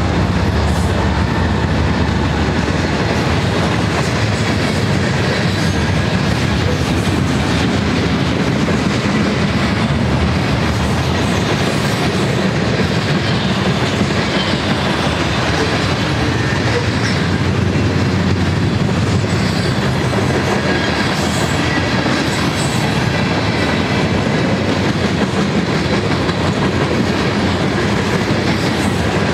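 Cars of a manifest freight train rolling past close by: a steady, loud rumble of steel wheels on the rails.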